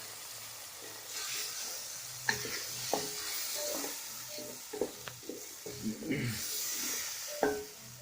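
A sofrito of onion, garlic, peppers and tomato sizzling in a pan while it is stirred, with many short knocks and scrapes of the utensil against the pan.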